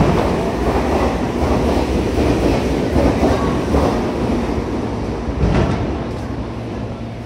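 Meitetsu electric train running through on the tracks, its wheels clacking over the rail joints with a rumble that is loud at first and fades toward the end.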